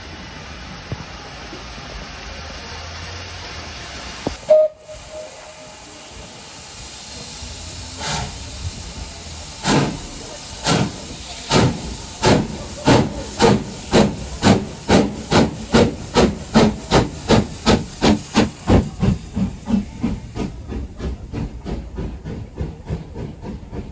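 Steam locomotive Taff Vale Railway No. 85 hissing steam, with a short whistle toot about four and a half seconds in. It then sets off: exhaust chuffs start slow and quicken to about three a second as it pulls away, and fade near the end.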